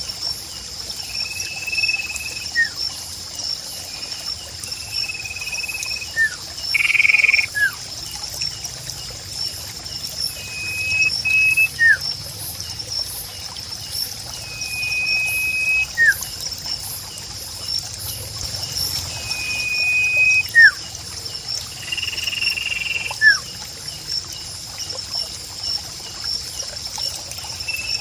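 Nature ambience: a bird repeats short, level whistled notes every couple of seconds, with quick falling chirps in between. Under it run a steady high-pitched insect drone and trickling water.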